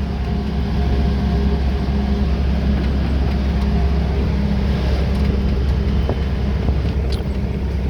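Truck engine running steadily under way, with tyre and wind noise: a constant low drone.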